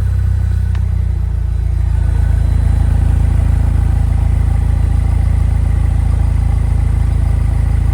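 2009 Saturn Sky Redline's turbocharged 2.0-litre four-cylinder engine idling steadily through its exhaust, growing louder and fuller about two seconds in.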